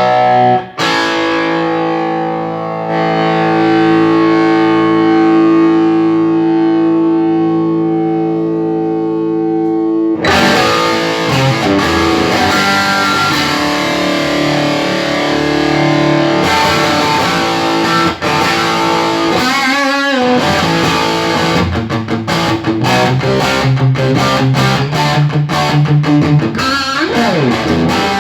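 Electric guitar played through a freshly repaired Yamaha T100C amplifier: a chord is held and rings out for about ten seconds, then busier playing follows, with a wavering bent note about two-thirds of the way through.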